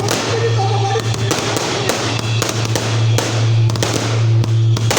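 Firecrackers going off in an irregular series of sharp bangs and crackles, over a steady low hum.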